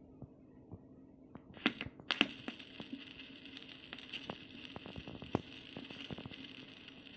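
Vinyl record surface noise on a Crosley Voyager Plus turntable: faint crackle and scattered pops, with a few louder clicks about a second and a half to two seconds in. After those clicks a steady hiss with a low hum sets in under the crackle.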